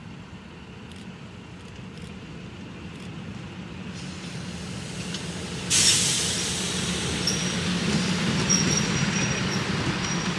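A train approaches with a steady low rumble that grows louder, then arrives with a sudden loud rush about six seconds in. After that a high squeal of wheels on rail comes and goes several times.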